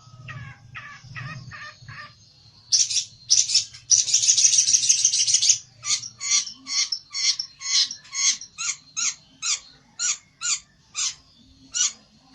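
A pelentet, a small songbird, calling agitatedly in a rapid series of sharp, high chips. About three seconds in the chips break into a loud, buzzing trill lasting a few seconds, then resume at about two a second. This is the 'ngamuk' aggressive song of a bird challenging a rival.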